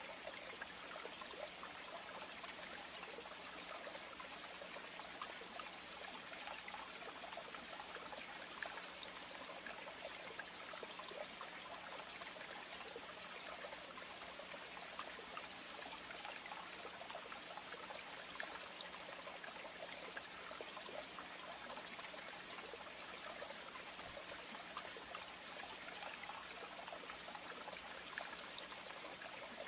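Steady trickle of running water, with faint scattered ticks.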